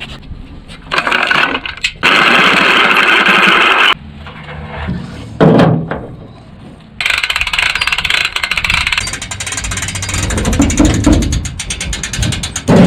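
Power tool running in short loud bursts, each starting and stopping abruptly, with a rapid clicking texture in the later burst.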